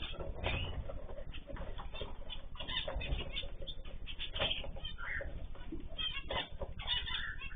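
Ornamental cage birds chirping and calling, many short calls overlapping throughout, over a steady low rumble.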